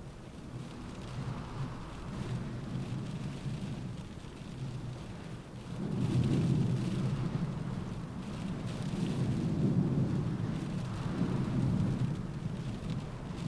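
Rain against a window in a windstorm: a fine steady patter under low-pitched gusts of wind that swell and ease, rising sharply about six seconds in and surging again around nine to twelve seconds.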